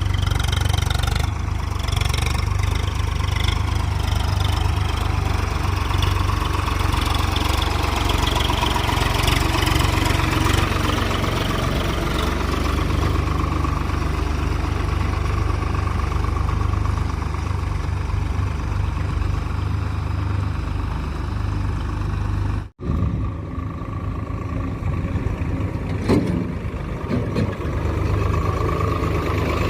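Diesel engine of heavy machinery running steadily under work, with a deep low rumble. About two-thirds of the way through, the sound cuts out for an instant and then resumes.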